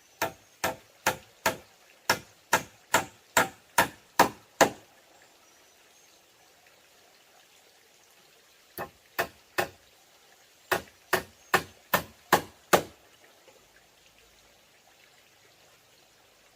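Hammer driving nails into wood: two runs of steady strikes, about two and a half a second, each run growing louder, with a pause of about four seconds between them.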